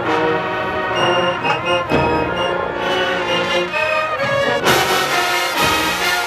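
HBCU show-style marching band playing, brass section sounding full sustained chords with changing notes, with percussion hits coming in strongly near the end.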